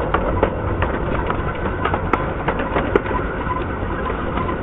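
Miniature railway train rolling along the track as it slows: a steady rumble from the carriage wheels with irregular clicks and clacks from the rails.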